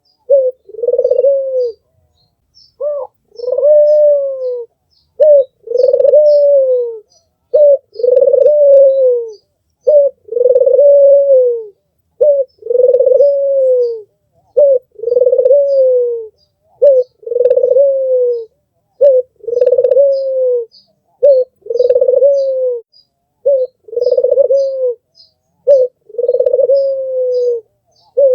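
Albino puter (ringneck dove) cooing over and over, about a dozen times. Each coo is a short note followed by a longer drawn-out note that falls in pitch, roughly every two seconds. Faint high chirps of small birds come through in the background.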